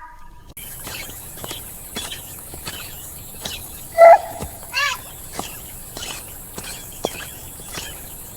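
An animal calls twice, a loud short call about four seconds in and a second one just under a second later. Underneath are outdoor ambience and repeated light clicks, like steps.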